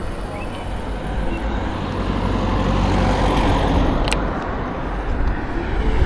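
Wind and road rumble on an action camera riding an electric scooter through town traffic, swelling about three seconds in, with a sharp click about four seconds in.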